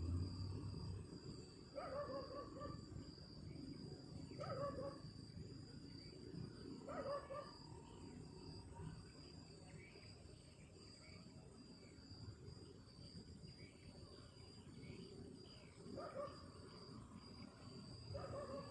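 Faint night ambience: a short animal call repeats about every two and a half seconds, falls silent for several seconds, then comes back twice near the end, over a steady high insect trill and a low rumble of wind.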